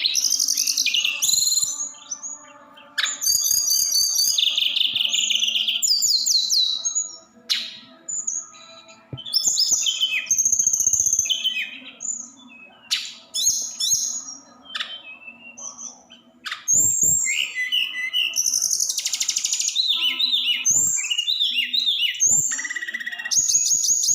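Tledekan gunung songbird singing a loud, varied song of fast rolling trills and sharp high chirps, in quick phrases with short pauses between them.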